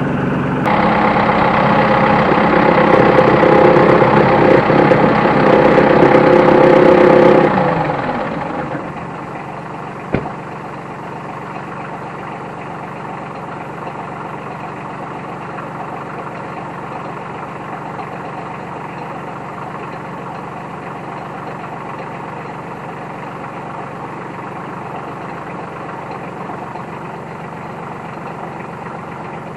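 New Holland T1510 compact tractor engine brought up to a higher, louder speed under a second in, held for about seven seconds, then winding down to a steady idle. One sharp click comes shortly after.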